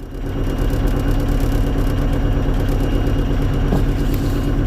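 Heavy-equipment diesel engine idling steadily, growing louder just after the start and then holding an even level.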